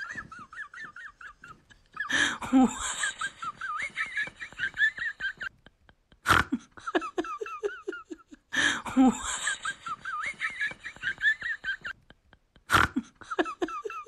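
Young women laughing and giggling in quick high-pitched bursts, broken twice by abrupt cuts to silence; one stretch of the laughter is heard a second time.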